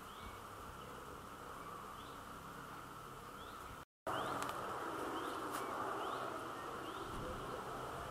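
Outdoor natural ambience: a small bird repeats a short rising call about once a second over a steady hiss. The sound cuts out briefly just before halfway, then comes back louder, with a few light clicks.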